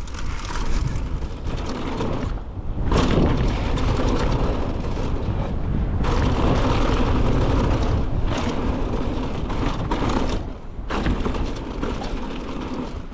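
Mountain bike descending a dirt trail: wind rushing over the camera microphone with tyre noise and occasional knocks from the bike, easing briefly twice.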